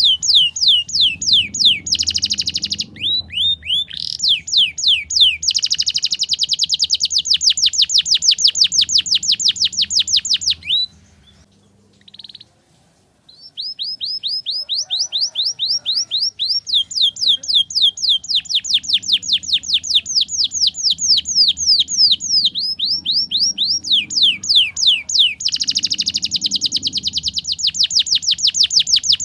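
Domestic canary singing long, rapid trills of repeated downward-sweeping notes, breaking off for a couple of seconds about halfway through before starting again.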